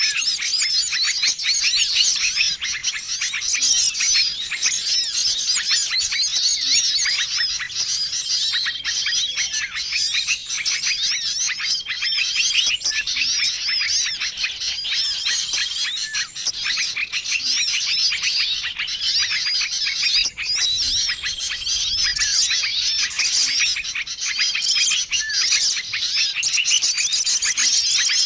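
Dense chorus of many small songbirds chirping and twittering over one another without a break, with short level whistle notes recurring every few seconds: a mixed bird-lure call recording.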